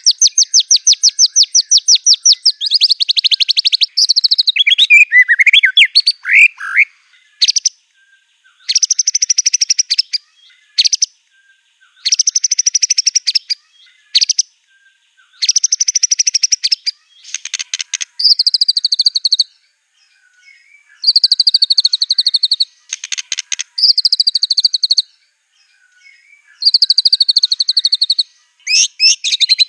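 White-rumped shama (murai batu) singing in loud, rapid trilled phrases of a second or two each with short pauses between, its song mixing in imitated canary-like trills, with a few swooping whistled notes about five seconds in.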